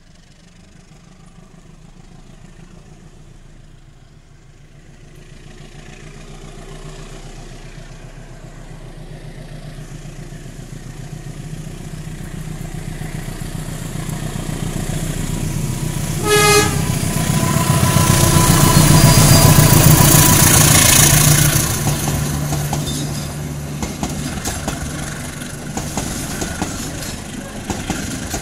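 A diesel-electric locomotive hauling a passenger train approaches and passes, growing steadily louder. About two-thirds of the way through it gives one short horn toot. The engine is loudest as the locomotive goes by, then the coaches roll past more quietly.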